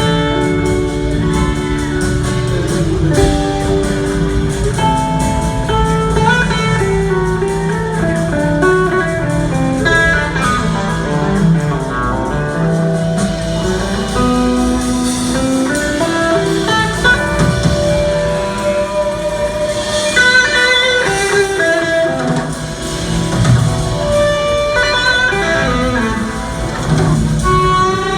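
Live band playing a guitar-led instrumental passage, with guitar over bass and drums.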